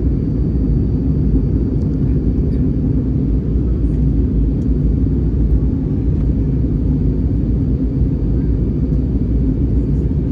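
Steady low rumble of an Airbus A320's engines and airflow heard inside the passenger cabin, as on the approach to landing.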